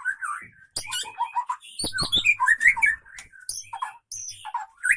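White-rumped shama (murai batu) singing a fast, varied song of whistled phrases, some sliding in pitch, broken by sharp clicks and high chips.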